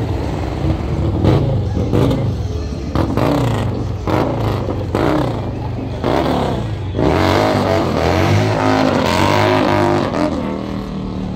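Car engines running and revving in street traffic, their pitch rising and falling as they pass.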